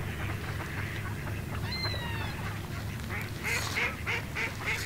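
A bird calling: a sliding whistled note about two seconds in, then from about three seconds a rapid series of short calls, about three a second, over a steady low rumble.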